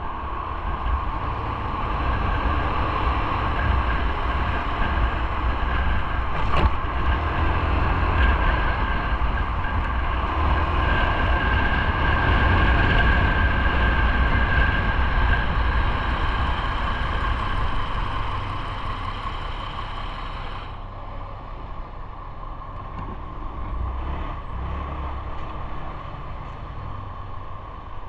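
Steady rumble and hiss of riding, with a couple of steady tones over it. It swells through the middle and eases off after about twenty seconds.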